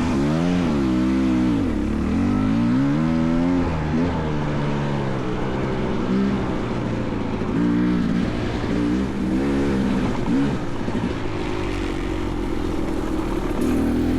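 Dirt bike engine under bursts of throttle, revs rising and falling over and over as it is ridden.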